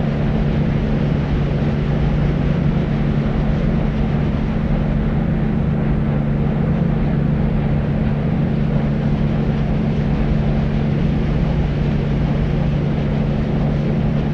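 Deep white noise for sleep: a steady, unbroken low rush with a constant low hum in it and the treble muted.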